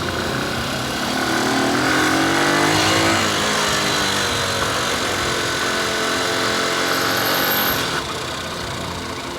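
Motorcycle engine accelerating, rising in pitch over the first three seconds, then running at a steady speed until the level drops suddenly about eight seconds in.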